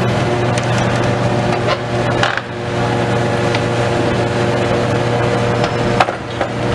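A heavy demolition machine's engine running steadily, with scattered clinks and knocks of metal and debris; a sharper knock about six seconds in.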